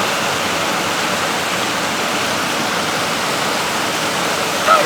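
Waterfall rushing steadily, a dense even roar of falling water. Near the end a brief voice sound cuts through.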